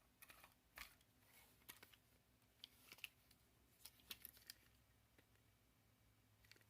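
Near silence with faint, scattered small clicks: a die-cast toy truck being handled and turned over in the hands.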